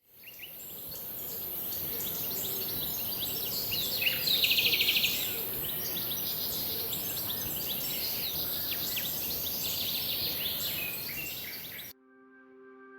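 Wild birds calling: many short chirps and calls over a steady high-pitched hiss, with a louder rapid trill about four seconds in. The sound cuts off suddenly near the end.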